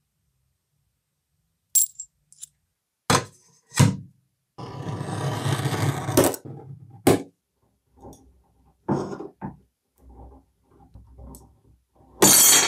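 Metal parts and tools being handled in a workshop: a series of separate sharp metallic clinks and knocks, some ringing, with a scraping noise lasting about two seconds in the middle.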